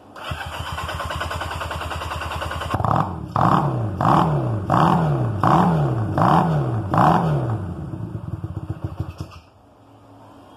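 Honda CB200 parallel-twin engine cranking over for a couple of seconds, then catching on its first run and revved with about seven quick blips of the throttle. It runs on briefly and cuts out suddenly near the end.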